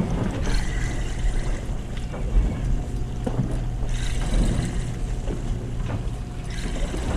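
Steady low drone of a party fishing boat's machinery, with wind and water noise over it.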